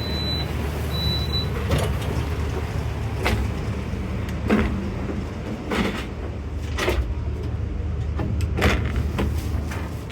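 Steady low rumble inside a passenger train carriage, with irregular knocks and clatter scattered through it and two short high beeps near the start.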